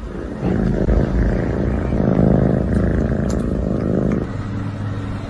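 A cat purring loudly and steadily, stopping about four seconds in.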